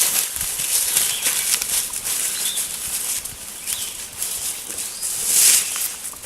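Rustling and crunching in dry leaf litter, a dense crackle of many small clicks, with one louder rush about five seconds in.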